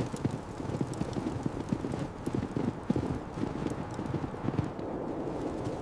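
Quick, irregular dull knocks, several a second, that thin out near the end.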